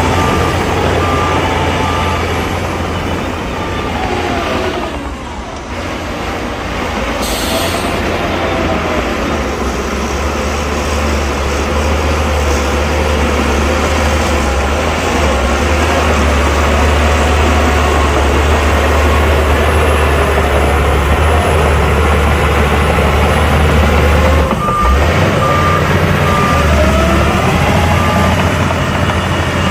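Heavy dump truck diesel engine running and shifting in pitch. A reversing beeper sounds at the start and again for the last few seconds, and there is a short air-brake hiss about seven seconds in.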